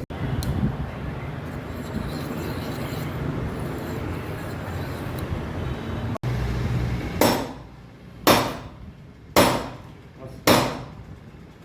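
Four hammer blows on metal, about a second apart, each ringing briefly, after a stretch of steady background noise.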